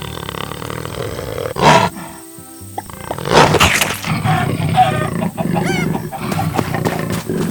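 Loud animal calls over background music, with the strongest calls about a second and a half in and again between three and four seconds in.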